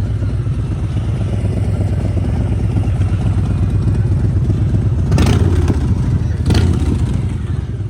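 A vehicle engine running close by, a steady deep rumble, with two sudden louder bursts about five and six and a half seconds in.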